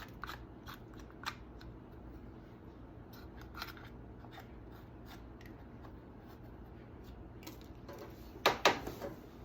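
Caked sawdust and grime being scraped off a Stihl MS271 chainsaw with a hand tool: scattered short scratches and clicks, with a quick run of louder sharp clacks near the end.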